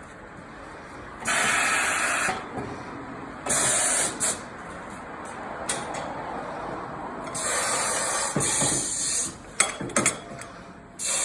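Compressed air hissing in short bursts of about a second, four times, with a few sharp clicks in between.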